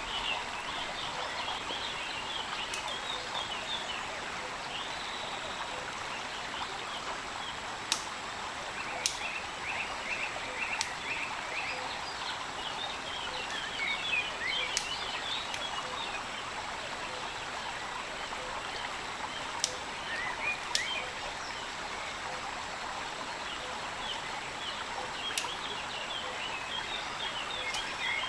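Steady rain falling, with a few sharp taps scattered through it and small chirping animal calls in short bursts now and then.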